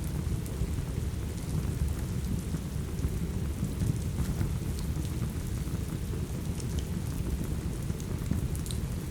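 Steady heavy rain with a deep, continuous rumble. Sparse faint ticks and crackles of a wood fire are scattered through it.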